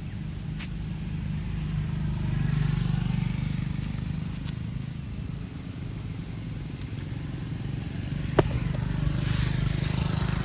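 A steady low engine hum, like a motor vehicle running nearby, that swells and fades twice, with one sharp click about eight seconds in.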